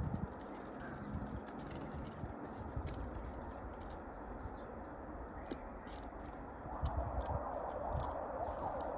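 Birds at a feeder: pigeon cooing and scattered pecking clicks over a steady background hiss. About two-thirds of the way in, a louder rushing hiss comes in.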